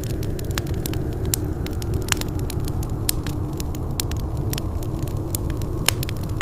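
Wood fire in a fireplace burning with a steady low rumble and frequent sharp, irregular crackles and pops.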